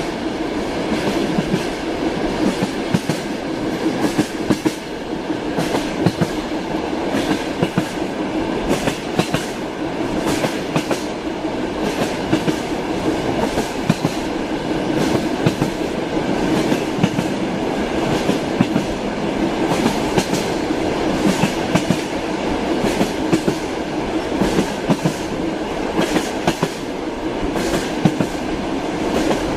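Railway wheels clattering over rail joints: a steady clickety-clack of irregular clicks over a continuous rumble, with no pauses.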